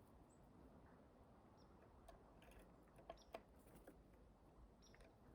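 Near silence, with a few faint, brief bird chirps and ticks, the clearest about three seconds in and more near the end.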